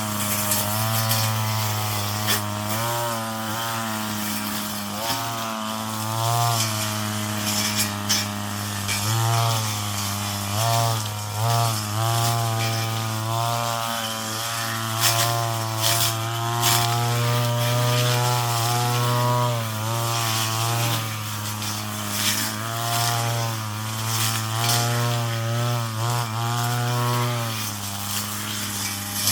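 Brush cutter engine running hard, its pitch dipping and recovering again and again as the blade bites into the weeds, with frequent sharp ticks of material being struck.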